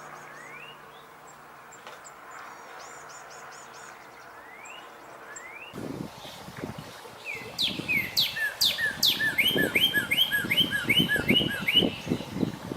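Wild songbirds singing. At first there are quieter rising chirps and thin high twitters. After an abrupt change about six seconds in, a louder bird sings a few steeply falling whistles and then a rapid series of repeated slurred notes, over low rumbling background noise.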